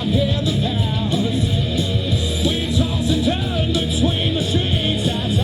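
Live rock band playing loudly, with a steady drum beat.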